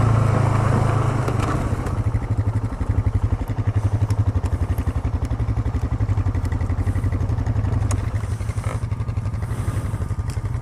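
ATV engine running at low speed, a steady low drone that settles into an even pulsing beat after about a second. Small clicks and rattles from the machine come through on top.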